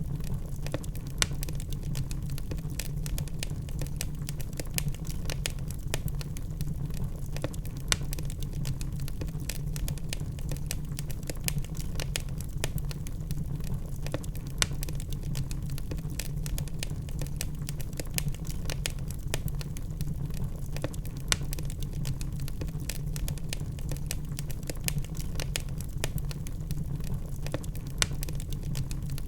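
Log fire burning: a steady low rumble of the flames with constant small crackles and a handful of louder pops from the burning wood.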